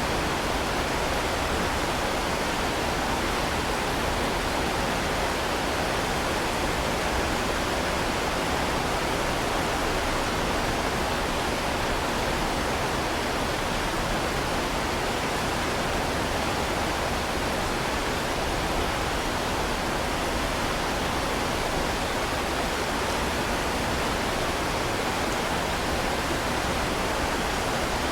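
Heavy rain falling in a steady, unbroken hiss, with no separate drops, thunder or gusts standing out.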